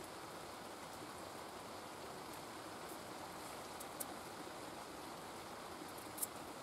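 Steady rain falling, a continuous even hiss, with two sharp drip-like ticks about four and six seconds in.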